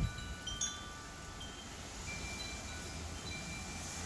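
Wind chimes ringing lightly: a few scattered high tones struck at different moments, each ringing on and fading, over a steady hiss.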